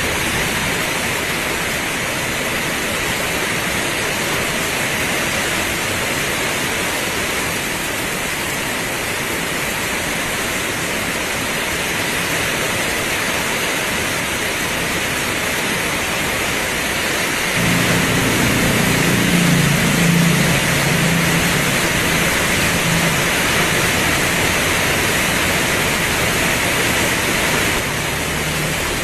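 Heavy rain pouring steadily. About two-thirds of the way in a low rumble joins for around ten seconds, then cuts off suddenly.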